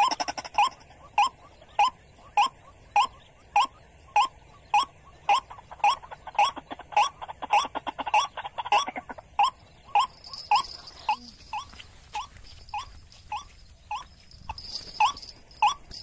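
Water bird calling, one short note repeated steadily about one and a half times a second.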